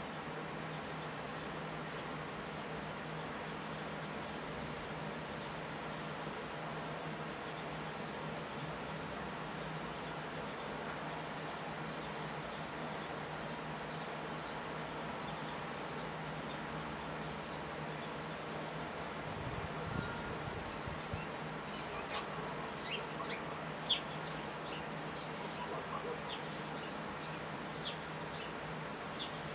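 Small birds chirping in quick runs of short, high chirps, with a few lower falling whistles in the second half. A steady low hum lies underneath, and a single sharp click comes about 24 seconds in.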